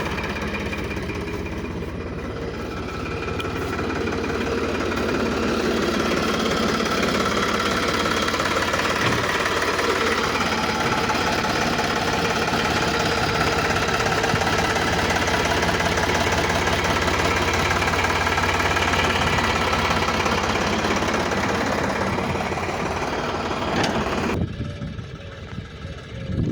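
Tractor's diesel engine running steadily, growing louder a few seconds in. The sound drops off abruptly near the end.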